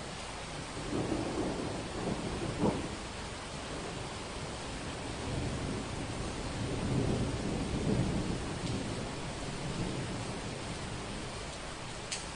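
Steady rain with thunder rumbling over it. A first roll comes about a second in and peaks sharply near three seconds. A longer, deeper rumble swells through the middle and fades.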